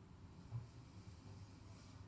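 Near silence: faint room tone with a low hum and one soft bump about half a second in.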